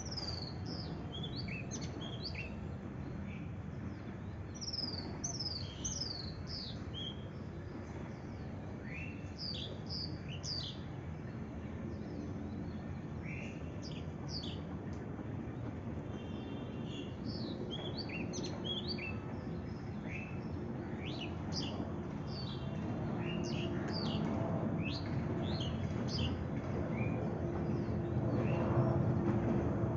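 A bird chirping: short, sharp notes that sweep down from a high pitch, repeated irregularly and sometimes in quick runs, over a steady low background noise.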